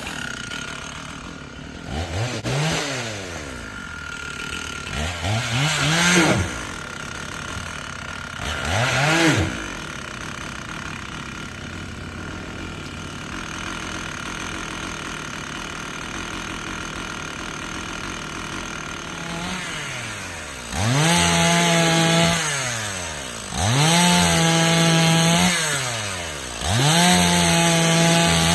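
Stihl MS461 two-stroke chainsaw blipped up and back down three times, then idling, then cutting wood at full throttle in three long passes from about two-thirds of the way in, the engine note sagging between passes.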